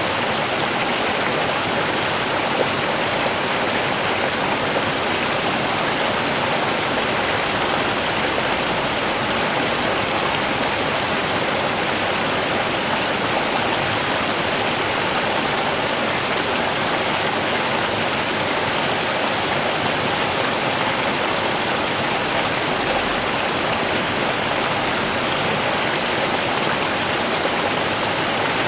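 Flowing river water: a steady, even rush with no breaks or changes.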